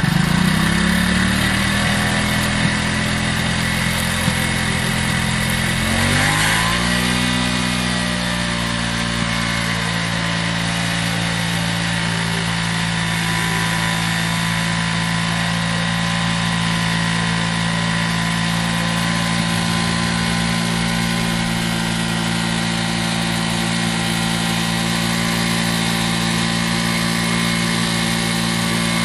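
A single-cylinder commuter motorcycle engine held at raised revs, its exhaust blowing into a large balloon taped over the silencer to inflate it. The revs climb about a second in, dip and climb again around six seconds in, then hold steady.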